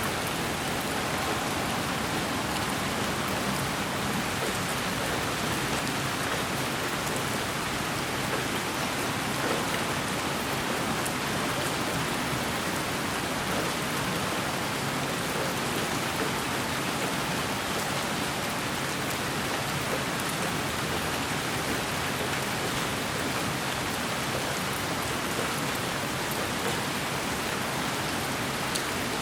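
Steady white-noise sleep sound: an even, unchanging rain-like hiss with faint scattered ticks.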